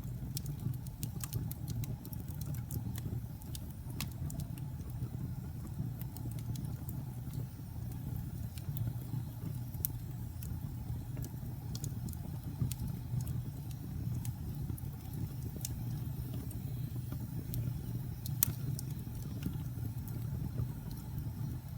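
Wood fire burning in a fireplace: a steady low rumble of the flames with frequent sharp crackles and pops scattered irregularly throughout, one louder pop about eighteen seconds in.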